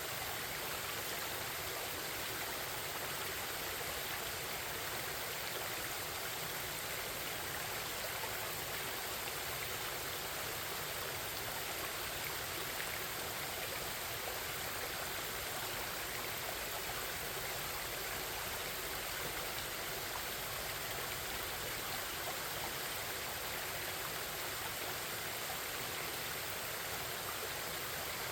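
Forest stream babbling steadily, an even wash of flowing water with no pauses.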